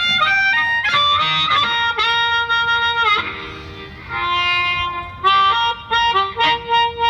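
Live blues band opening a slow blues, with a harmonica leading in phrases of held, bending notes. It softens briefly about halfway through.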